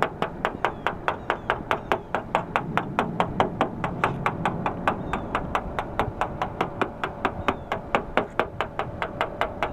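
Rapid, even ticking, about five clicks a second, with no break.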